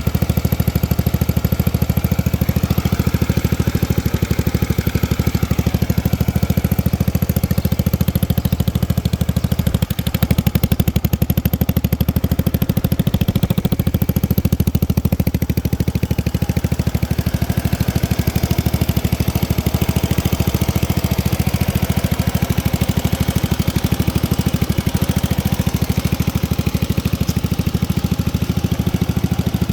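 Small four-stroke motorcycle engine idling steadily, with a brief rise in level about ten seconds in.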